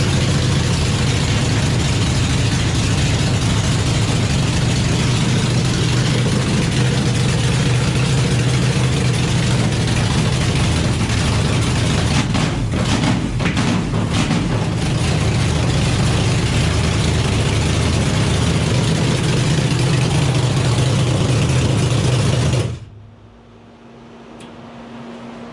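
Chevrolet small-block V8 running steadily on its first start, with a few uneven moments midway, then shut off about 23 seconds in. The carburettor is not yet tuned.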